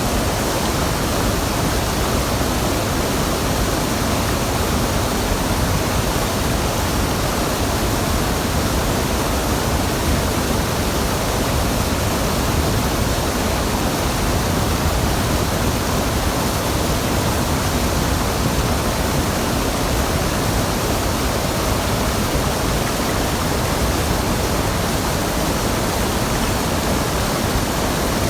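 Steady, unbroken rush of water from a waterfall on a mountain stream, loud and even throughout.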